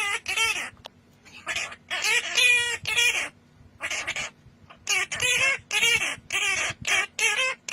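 Parrot giving a rapid run of short, pitched calls, one after another with brief gaps between them.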